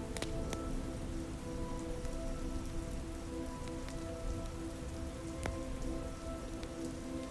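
Steady soft rain over a quiet ambient score of long held notes, with a few sharp clicks now and then.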